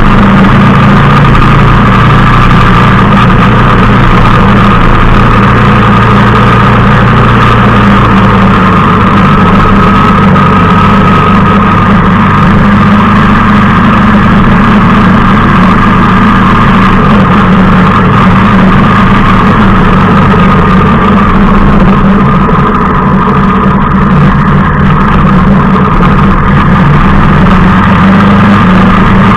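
Motorcycle engine running steadily at an even cruising pace while the bike is ridden, heard from on board the rider's own bike; loud and unchanging.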